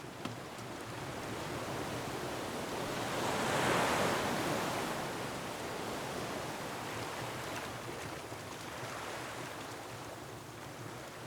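Ocean wave surging in against a rocky shore, swelling to a crash about four seconds in, then slowly washing back. A few faint crackles from a wood fire come at the start and now and then after.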